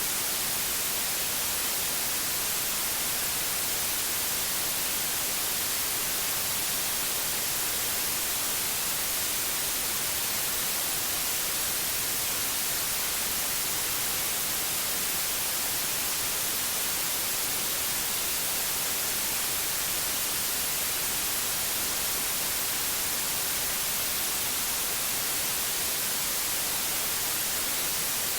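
Steady white noise: an even, unbroken hiss, brightest in the high frequencies, with no change or events.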